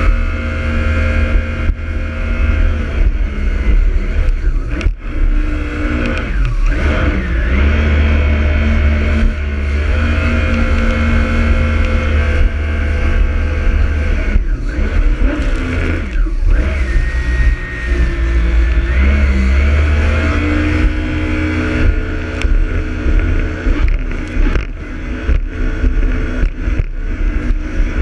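Jet ski engine running at speed, its pitch shifting up and down every few seconds with the throttle.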